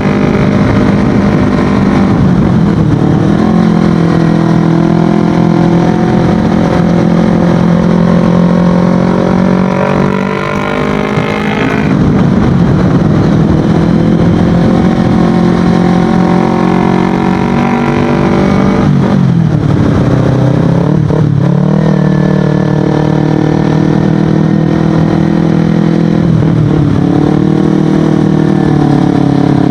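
Kawasaki Ninja 250FI parallel-twin engine with an Akrapovic exhaust, under way on the road. The engine note rises through the revs, drops sharply at a gear change about twelve seconds in, and climbs again. It falls away briefly as the throttle closes around twenty seconds in, then pulls up once more.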